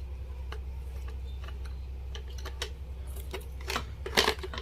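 Scattered light clicks and taps from wires and small parts being handled on a workbench, with a small cluster of sharper clicks about four seconds in, over a steady low hum.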